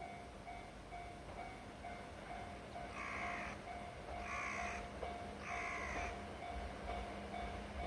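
A crow caws three times, each call about half a second long, about a second apart. Underneath, a level crossing warning bell rings steadily, about two strokes a second. A low rumble builds in the second half as the train approaches.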